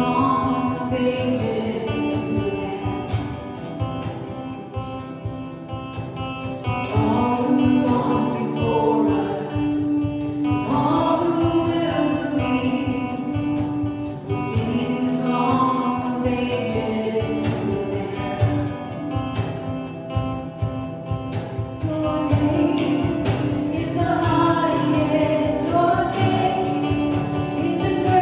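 Gospel worship music: a group of voices singing with instruments and a steady beat.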